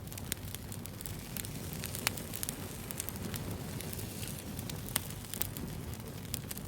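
Wood fire burning: a steady low rush of flames with frequent sharp crackles and pops, two louder pops about two and five seconds in.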